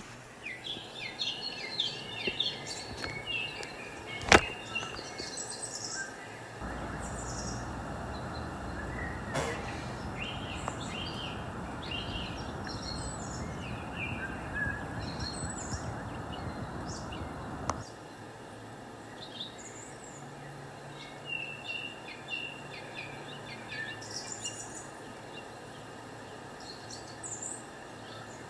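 Several birds chirping and calling, with many short, high chirps throughout. A steady noise sits under them from about six seconds in until about eighteen seconds, starting and stopping abruptly, and a single sharp click comes about four seconds in.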